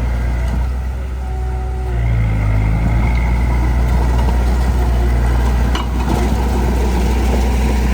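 Heavy earthmoving machine's diesel engine running under load, revving up about two seconds in and holding the higher revs. A single sharp knock comes about six seconds in.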